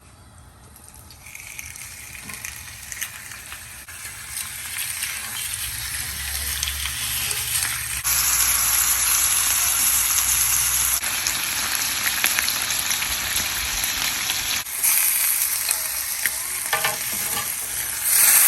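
Stuffed giant squid sizzling on a hot griddle, a dense frying hiss that starts faint and grows loud, with a few sudden jumps in level.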